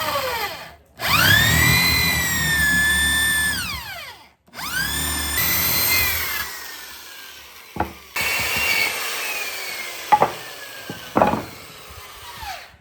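A handheld electric power tool on wood, switched on and off in bursts. Each time its high whine rises quickly as the motor spins up, holds steady for a couple of seconds, then falls away as it runs down. There are three such runs, with a few sharp knocks in the last one.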